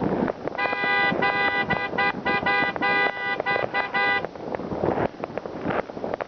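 A horn honking in a rapid run of short blasts, several tones at once, for about four seconds, starting just after the beginning. Under it, the steady crackle and bangs of fireworks.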